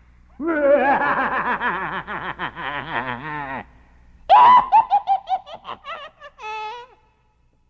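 Laughter sound effect in two bursts: a laugh about three seconds long, then a second, higher laugh that breaks into short, quick ha-ha pulses.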